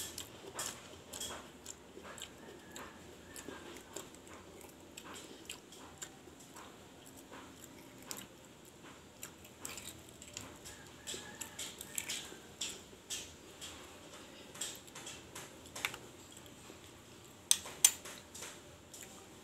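Close-up mukbang eating sounds: biting and chewing with many short wet mouth clicks and smacks. Two louder clicks come near the end.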